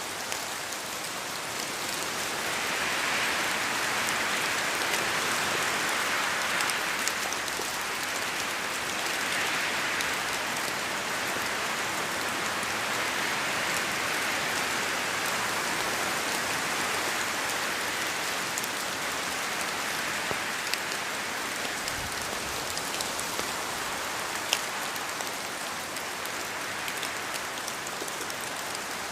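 Steady rain falling through forest trees, a dense patter of individual drops over an even hiss, swelling and easing gently in slow waves.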